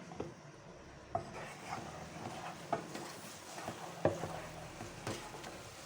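A utensil stirring chocolate into melted margarine in a saucepan on low heat, tapping and scraping against the pan at irregular moments, with a faint sizzle underneath.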